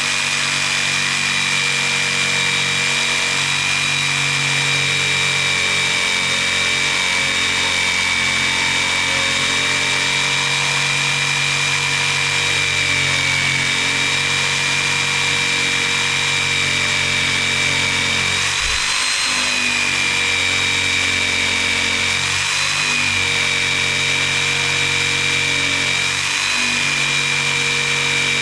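Electric jigsaw cutting through a thick wooden beam, its motor running with a steady high whine. The pitch sags briefly a few times as the blade loads up, around two-thirds of the way in and again near the end.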